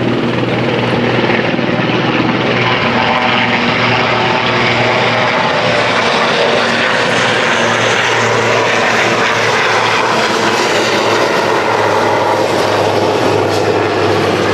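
Helicopter flying low overhead, a steady loud rotor and engine noise with a constant low hum, not landing but passing over as a decoy.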